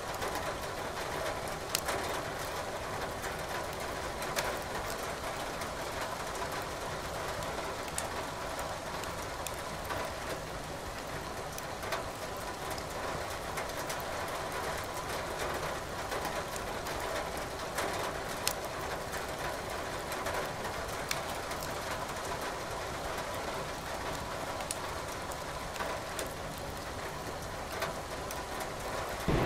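Firewood crackling in a fireplace, with scattered sharp pops every few seconds over a steady hiss of rain.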